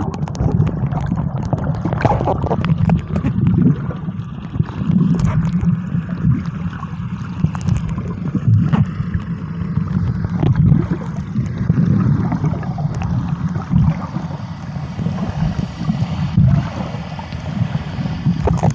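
Low, uneven rush of sea water with wind buffeting the microphone, and scattered short knocks and splashes.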